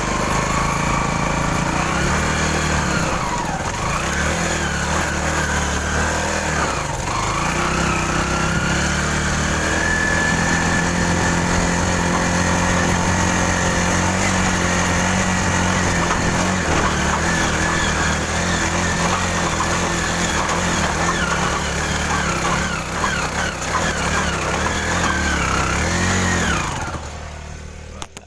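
Motorcycle engine of a sidecar tricycle working hard under load as it churns through deep mud, revs rising and falling again and again. The engine note falls away suddenly about a second before the end.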